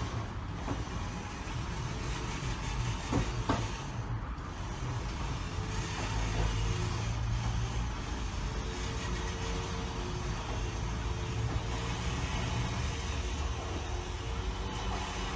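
A vehicle on the move, with a steady engine and road rumble, and a couple of short clicks about three seconds in.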